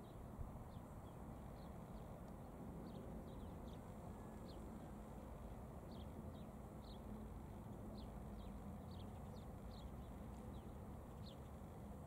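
Many short, high chirps of small birds, each sliding down in pitch, scattered irregularly over a faint, steady low rumble.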